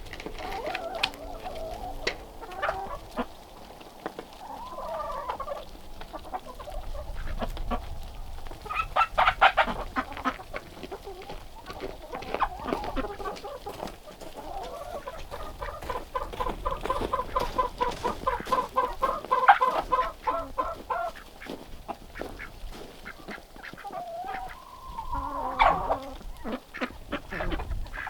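Chickens clucking and calling, with a long run of quick repeated clucks in the middle.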